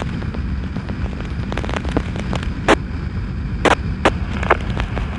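Motorcycle running at riding speed with a steady low rumble of engine and wind, broken by several sharp pops, about three of them loud, in the middle of the stretch.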